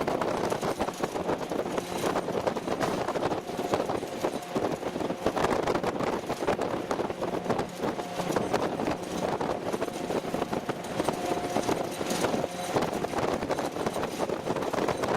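Military convoy vehicle on the move, with dense, constant rattling and clanking over a steady running drone.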